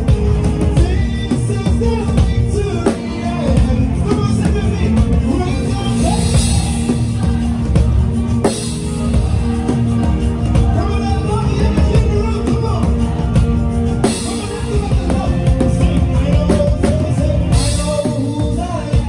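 Live praise band playing an upbeat groove, with a full drum kit, bass and sustained keyboard chords. Cymbals crash several times over the steady beat.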